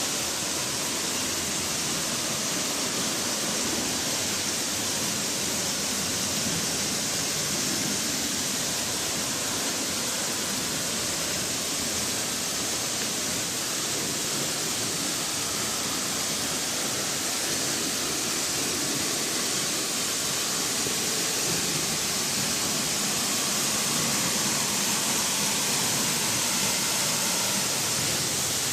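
A 60-foot waterfall at full flow after heavy rain, its falling water making a loud, steady rushing hiss.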